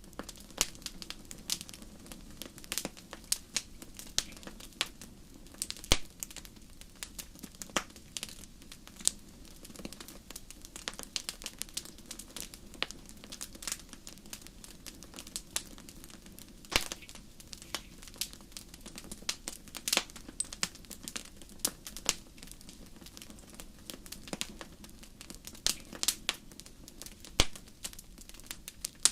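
Wood fire crackling, with frequent irregular sharp pops and snaps over a low steady hiss.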